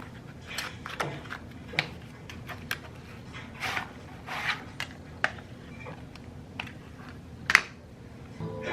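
Household handling sounds: a scatter of light clicks and taps, with two short swishes about midway and the sharpest click near the end.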